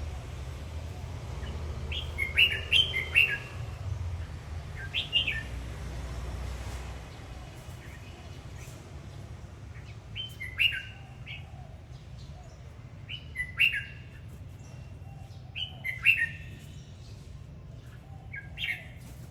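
Red-whiskered bulbul singing short, bright phrases of a few quick notes, one phrase every two to three seconds, with a low steady hum underneath.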